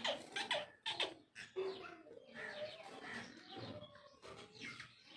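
Pet parrots calling: a string of short, sharp chirps and squawks that fall in pitch. They are loudest and thickest in the first second or so, with smaller calls following.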